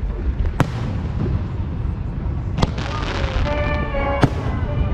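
Fireworks display: a continuous low rumble of bursts, with three sharp cracks spaced about two seconds apart.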